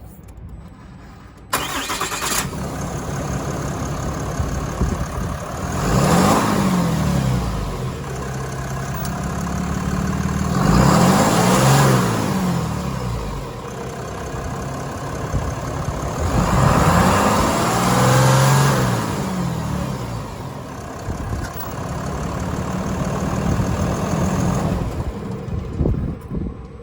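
A Ram 2500 pickup's engine cranking and starting, then idling steadily and revved three times, each rev climbing and falling back to idle; it shuts off near the end.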